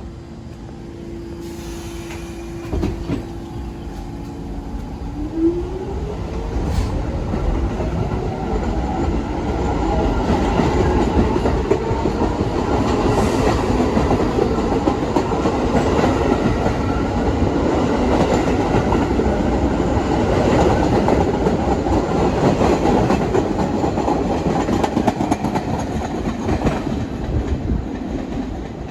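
New York City subway train pulling out. A steady electric tone turns into a rising motor whine about five seconds in as it accelerates, followed by a loud rumble and clickety-clack of wheels over the rail joints as it gathers speed.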